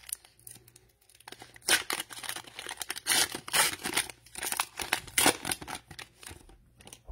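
Cellophane wrapper of a trading-card cello pack being torn open and crinkled, a run of short crackling rips and rustles.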